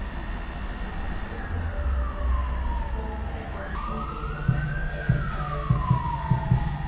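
Emergency-vehicle siren wailing: one slow falling sweep, then a rise about four seconds in and another slow fall, over a low rumble with a few soft low knocks.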